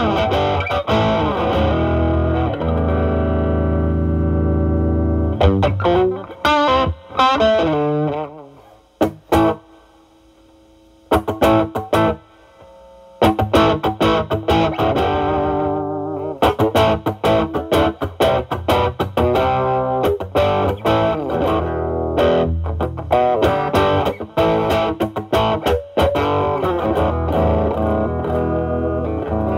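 Stratocaster with single-coil pickups played through a Ceriatone Centura overdrive, a Klon Centaur clone set at gain 9, into a Marshall Valvestate amp's drive channel. The guitar's volume is rolled back to clean up the tone, giving a lightly overdriven sound. Picked notes and chords play steadily, with a pause about a third of the way in in which a single note rings.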